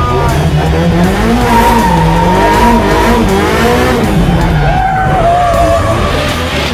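Drift car engine revving up and down as the car slides, with tyres squealing in long held tones.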